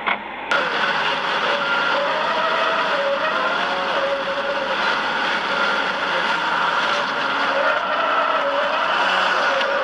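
A car driving, with steady engine and road noise and a faint wavering whine running through it.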